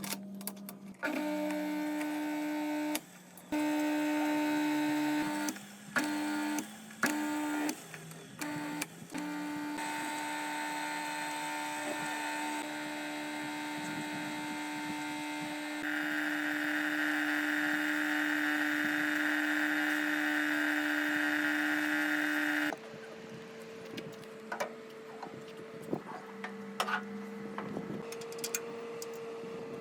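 A small machine motor humming at a steady pitch, stopping and restarting several times in the first ten seconds, then running on; for several seconds past the midpoint a hissing noise runs over it. Then the motor cuts off abruptly, leaving a quieter, higher hum with scattered light clicks.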